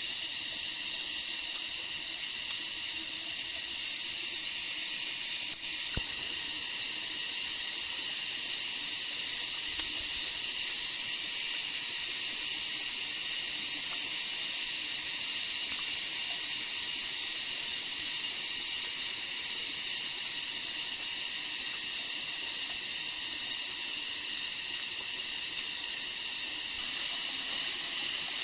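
Insects droning in a steady, high-pitched hiss, with a single sharp click about five and a half seconds in.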